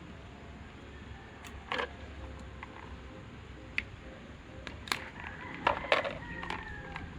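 Scattered sharp clicks and light taps of small tools and metal parts handled during an electric-fan motor repair, thickest and loudest about five to six seconds in, over a steady low background hum.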